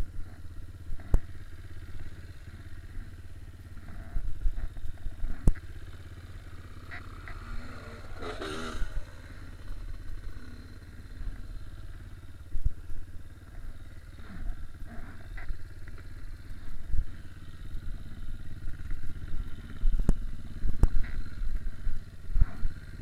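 Dirt bike engine running at a low, steady note, with scattered knocks and clatter throughout and a brief louder rush of noise about eight seconds in.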